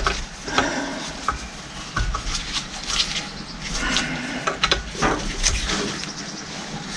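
Irregular clicks, knocks and brief scraping of hand tools and metal parts being handled while the hydraulic pump is tightened together.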